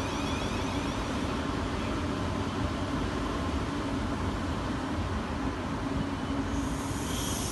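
South Western Railway electric multiple unit moving slowly along the platform, with steady running noise and a low hum. Near the end a steady high hiss starts.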